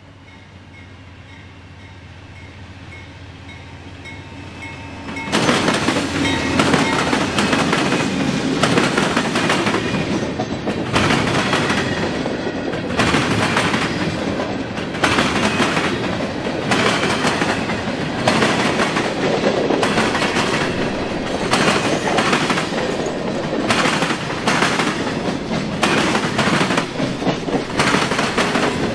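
CSX diesel-led freight train approaching, growing louder, then about five seconds in the train passes close. Its cars' wheels clatter over the diamond rail crossing in a steady rhythm of about one clatter a second.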